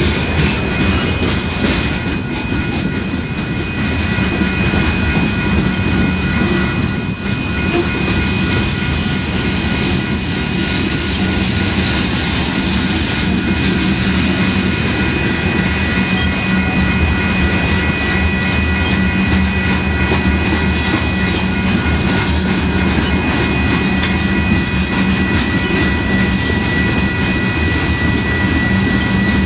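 Freight cars of a long manifest train rolling past close by: a steady rumble and rattle of steel wheels on the rail, with a thin high-pitched ring held steadily throughout.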